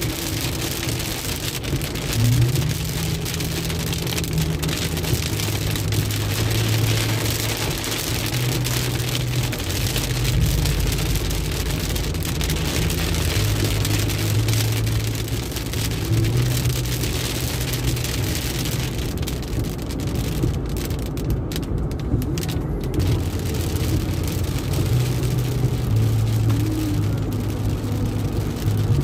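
Rain hitting the car's windscreen and body, heard from inside the moving car, over the steady low drone of the car on the wet expressway. The rain hiss thins out for a few seconds about two-thirds of the way through, then returns.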